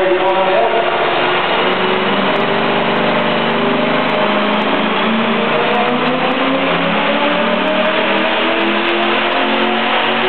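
Worked 5.7-litre V8 of a Holden Statesman running hard on a chassis dyno. The engine note climbs slowly and steadily as the revs build through the pull.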